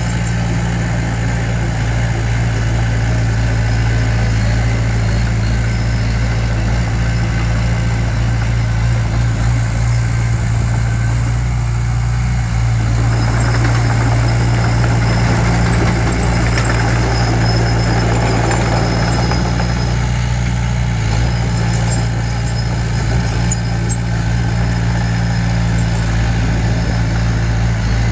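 Heavy-equipment diesel engine running steadily with an even low hum, and a noisier stretch about halfway through.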